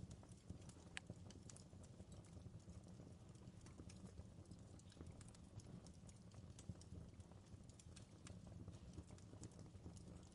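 Campfire wood crackling, faint, with frequent irregular sharp pops over a steady low rumble.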